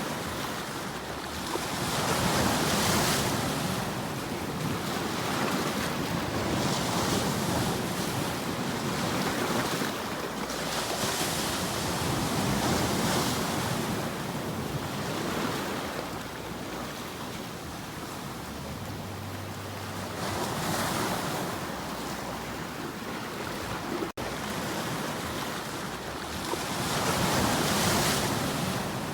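Ocean waves breaking on a shore, the surf swelling and fading every few seconds, with a momentary gap in the sound about 24 seconds in.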